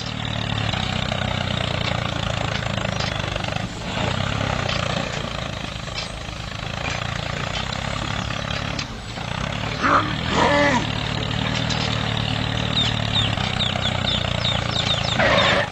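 An engine running steadily, with a brief sliding pitched sound about ten seconds in.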